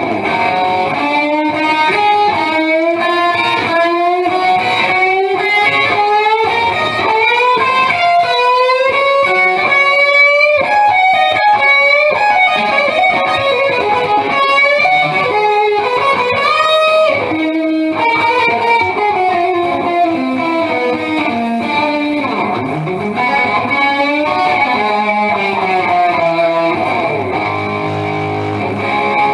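Electric guitar, a Gibson Explorer, played through a Marshall JVM410H tube amp on its Overdrive 2 channel, dialed for a 1970s Plexi Super Lead hard rock tone with no pedals. It plays fast lead runs with string bends and vibrato, easing into slower bends and held notes near the end.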